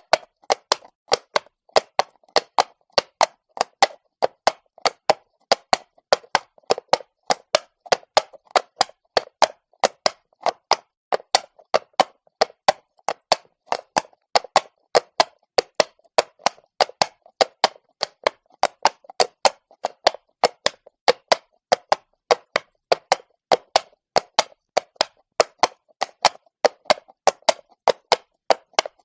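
Horse walking on stone, its hooves striking in a steady, even clip-clop of sharp knocks, about three a second.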